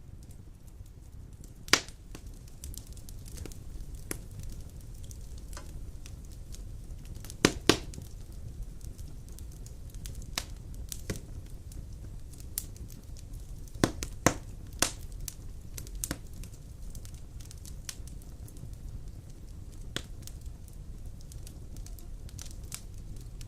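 Large wood logs burning in a stone fireplace: a steady low rumble of the flames with irregular sharp crackles and pops of the burning wood. The loudest pop comes about two seconds in, and a close pair comes near eight seconds.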